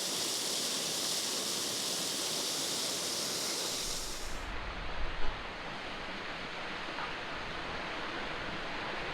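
Steady rushing of a fast moorland beck with waterfalls. About four seconds in, the bright hiss drops away to a duller rush, with low wind rumble on the microphone.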